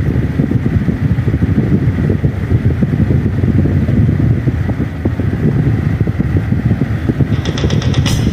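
Strong wind buffeting the microphone, a loud steady low rumble. Music with a beat comes in about a second before the end.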